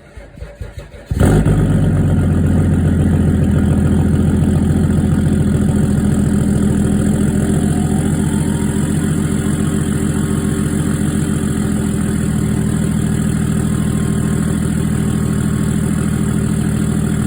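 Cold start of a BMW E46 330d's M57D30 3.0-litre straight-six turbodiesel through a straight-piped 60 mm turbo-back exhaust: the starter cranks for about a second, then the engine catches and runs at a loud, steady idle. The idle eases slightly about twelve seconds in.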